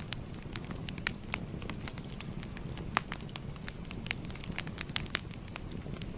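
Fire crackling: scattered, irregular sharp pops and snaps over a steady low rumble of the flames, with the loudest pops about three seconds in and again near five seconds.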